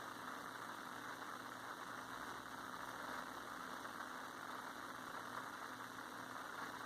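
Steady mechanical hum with a band of hiss, unchanging, with no sudden sounds.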